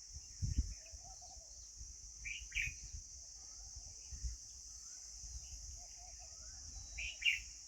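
Birds calling in a few short, sharp notes, once about two seconds in and again near the end, over a steady high hiss, soft chatter and a few low thumps.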